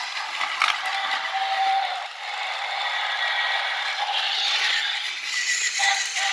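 Plastic toy train and track pieces rattling and scraping as they are handled, with a sharp click about 0.7 seconds in.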